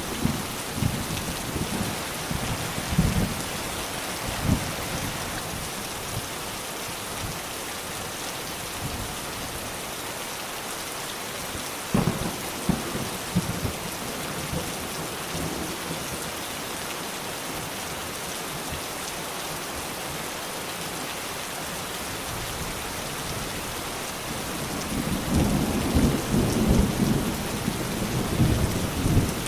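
Steady rain with thunder: low rumbles at first, a sharp crack about twelve seconds in, and a louder rolling rumble building near the end.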